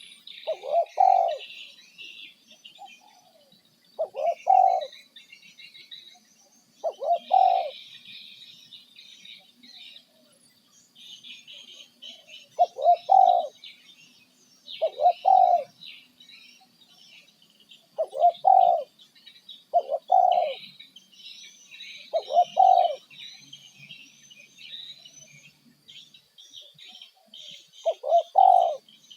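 Bird calls: a short call repeated about nine times, a few seconds apart, over continuous fainter high-pitched chirping.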